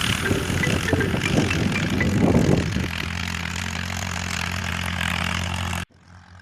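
Tractor engine running steadily, with a rougher, louder stretch in the first few seconds. It cuts off suddenly near the end.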